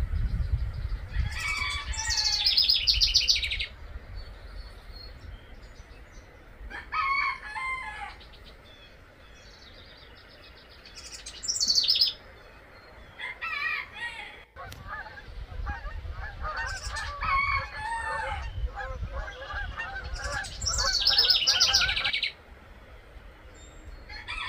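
Birds singing in short, repeated bursts of high trilled song, about six phrases, with a longer stretch of busy chattering in the middle. A low wind rumble on the microphone sits under the start and the middle.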